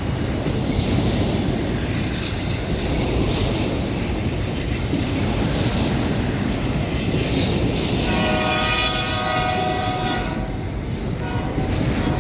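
Freight train running past with a steady rumble of wheels on the rails. About eight seconds in, the locomotive's air horn sounds one chord of several notes for about two and a half seconds.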